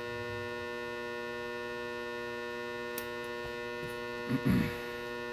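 Steady electrical mains hum, with a single small click about three seconds in and a brief low voice-like sound shortly before the end.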